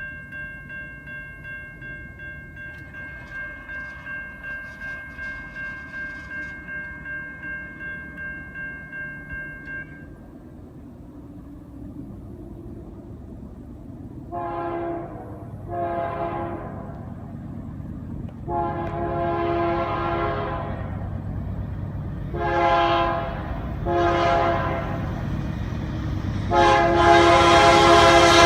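A railroad crossing bell rings, pulsing about twice a second, and stops about ten seconds in. Then the lead GE C40-9W locomotive's air horn sounds a series of chord blasts (two medium, one long, two short, and a long one near the end) over the rising rumble of the approaching train.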